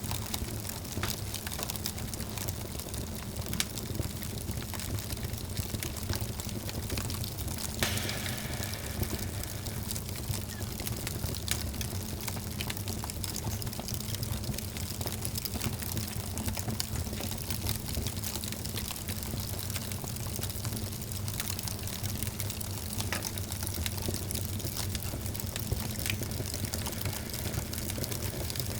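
Wood fire burning in a fireplace: a steady hiss with many small crackles and pops, and one louder pop about eight seconds in.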